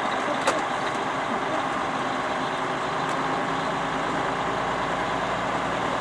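Semi-truck diesel engine running steadily at low speed, heard from inside the cab, with a brief sharp click about half a second in.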